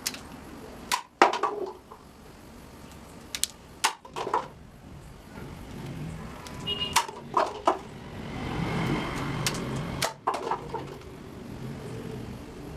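Sharp clicks and snaps in short clusters, about ten in all, over a low steady background noise.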